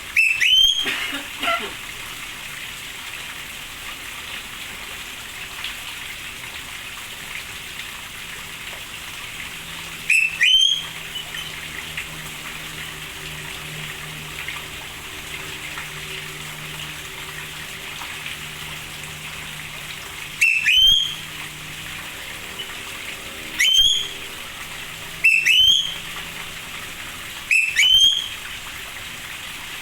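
A bird giving a short, loud, rising whistled call six times, several seconds apart, over a steady hiss of rain.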